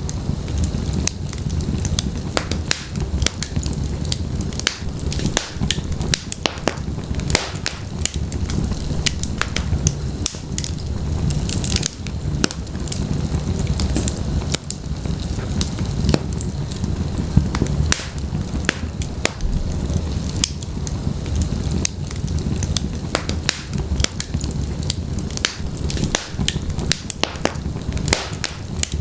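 Wood logs burning in a fireplace: continuous crackling with many sharp, irregular pops over a steady low rumble of the flames.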